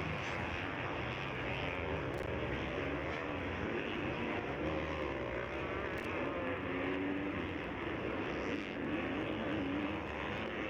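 Several motocross bikes running on track, their engines revving up and down as the riders work the throttle, with pitches wavering and overlapping.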